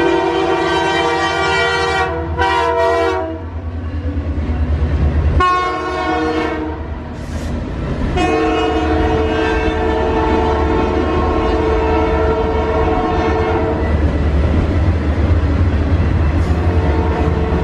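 Canadian Pacific Holiday Train passing: the locomotive's air horn sounds a chord in several blasts, a long one cut by two short breaks about two to three seconds in, then two more long blasts from about five to fourteen seconds in. Under the horn runs the steady rumble and clickety-clack of the cars rolling past.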